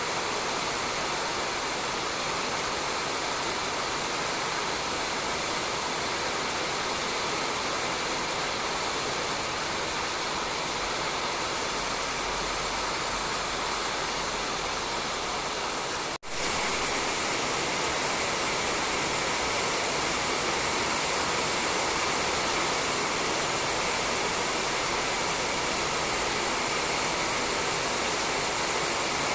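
Steady rain falling on a roof: a dense, even hiss. It drops out for a split second about halfway through, then comes back slightly brighter.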